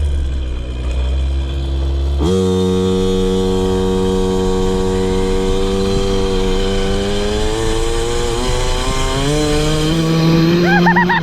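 KTM 50 Mini Adventure's small two-stroke engine, its air screw freshly tuned, idling low for about two seconds, then revving up sharply and held at high revs with the pitch slowly climbing. Near the end the revs drop and waver up and down.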